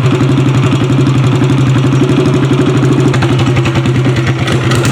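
Small go-kart-type gas engine with a header and no muffler, running steadily under load on a torque-tube boat drive. It is bogging down.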